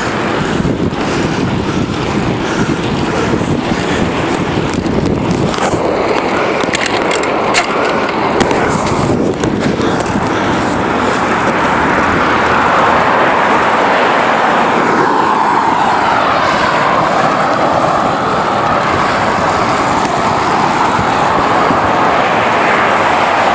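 Steady road noise while riding a bicycle along a street: wind on the microphone and tyres rolling on pavement, mixed with passing car traffic.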